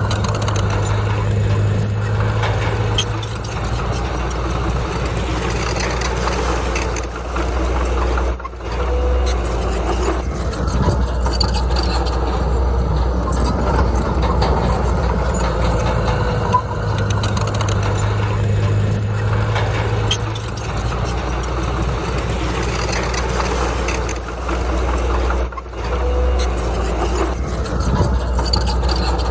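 Heavy diesel engine of earthmoving machinery running steadily under load, with a deep low rumble, dropping out abruptly for a moment twice.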